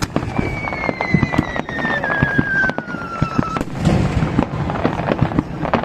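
Fireworks display: aerial shells bursting in rapid, crackling pops and bangs, with a whistle that falls steadily in pitch over about three seconds.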